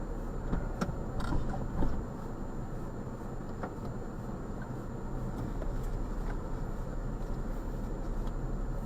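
Steady low hum of a car heard from inside, with a few faint clicks and ticks.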